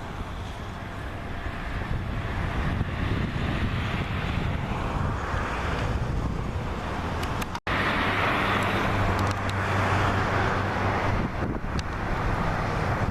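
Jet engines of a Boeing 737 MAX 8 running: a steady rush with a low hum that grows louder, with wind on the microphone. The sound cuts out for an instant about seven and a half seconds in, then comes back louder.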